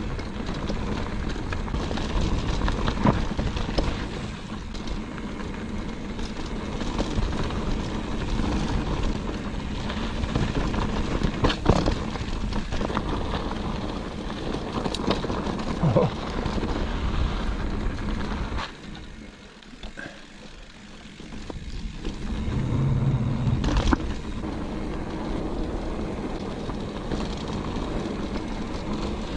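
Mountain bike riding down a dirt singletrack: a steady rumble of wind on the microphone and tyres on dirt and rock, with the bike rattling. There are a few sharp knocks over rocks and a short quieter stretch about two-thirds of the way through.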